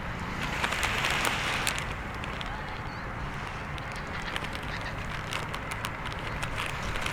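Bonfire crackling with scattered sharp pops over a steady low rumble of wind. A rush of hissing noise swells about a second in and fades by two seconds.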